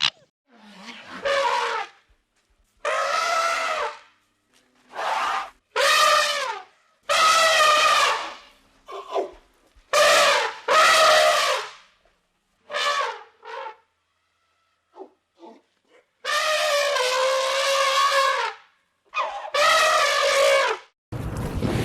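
An animal calling over and over: about a dozen separate calls, each a second or so long with a wavering pitch, broken by short pauses, the longest near the end.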